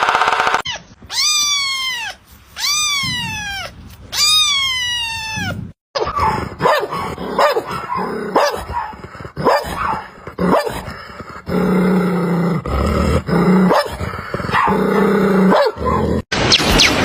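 A dog barking in short, sharp barks mixed with deep growls. Before it come three long cries that fall in pitch.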